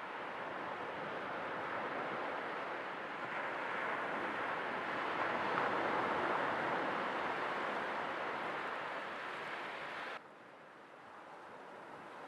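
Sea waves washing, swelling to a peak about halfway through. A little after ten seconds the sound drops suddenly to a quieter wash.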